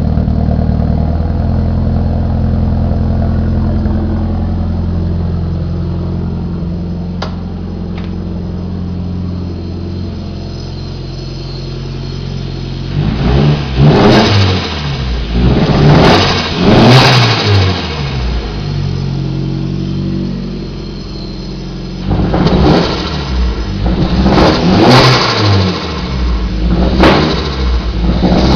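Turbocharged Nissan EXA four-cylinder engine breathing through a 3-inch exhaust. It idles steadily, is blipped in several quick revs about halfway through, settles back to idle, then is revved in short blips again near the end.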